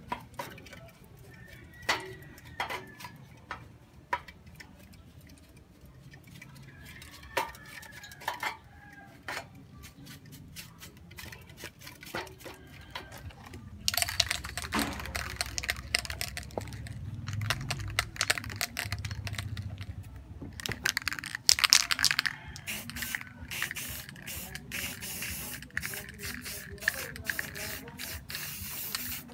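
Aerosol spray-paint can: a few light handling clicks, then about halfway through a dense stretch of rattling as the can is shaken, then a loud hissing spray of paint followed by a run of short spray spurts.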